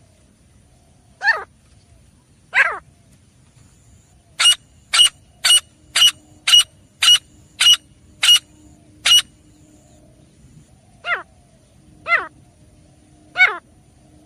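Grey francolin calling: two downward-sweeping calls, then a run of about nine short, sharp, high notes at roughly two a second, then three more sweeping calls near the end.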